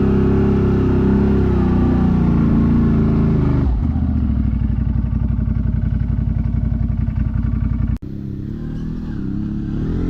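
ATV engine running at steady throttle, then dropping to a slower, evenly pulsing idle about four seconds in. Near the end the sound breaks off abruptly and an engine picks up revs again.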